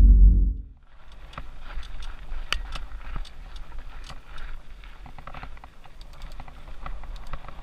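Music ends about a second in. After that, a mountain bike rolls along a dirt trail: its tyres crunch over gravel and loose dirt, with many scattered sharp clicks and rattles.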